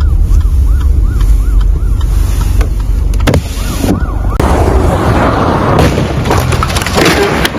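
An electronic siren warbling rapidly, its pitch rising and falling about four times a second, over a heavy low rumble of wind or traffic. A little over four seconds in it gives way to a loud rushing noise.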